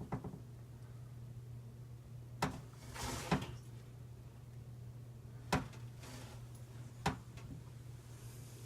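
A few sharp light knocks and a short rustle about three seconds in, from hands handling things in the cabinet under a sink, over a steady low hum.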